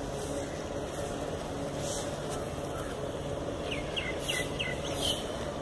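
Steady outdoor background noise, with a small bird giving a quick run of short, high chirps a little under four seconds in.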